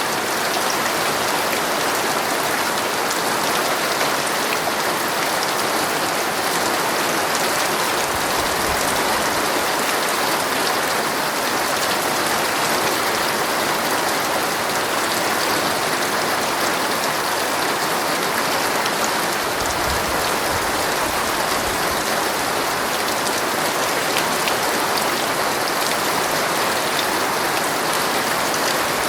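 Heavy rain drumming steadily on a tent's fabric, heard from inside the tent, with two brief low rumbles.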